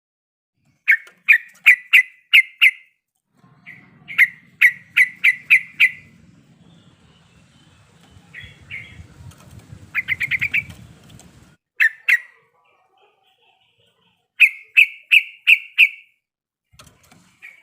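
A trucuk (yellow-vented bulbul) singing in quick phrases of about five to seven sharp, evenly spaced chirping notes, with short pauses between phrases. A low rumble sits under the song from about four seconds in until near the middle.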